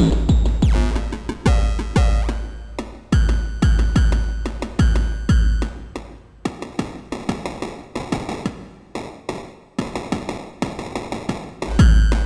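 Electronic drum pattern from a Pico Drums module played through a Befaco FX Boy effects module. Deep kicks and clicky percussion hits each carry a ringing, pitched effect tail.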